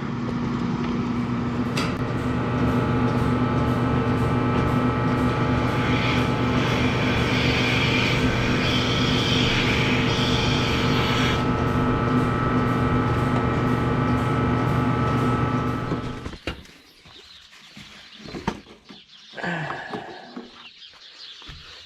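Engine of a farm machine running steadily at a constant speed, with a hiss joining for a few seconds in the middle. It cuts off abruptly about 16 seconds in, leaving only faint scattered knocks and rustles.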